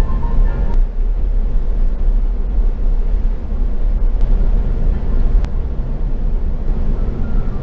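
Steady low rumble of Airbus A380 cabin noise after landing, with a few faint clicks.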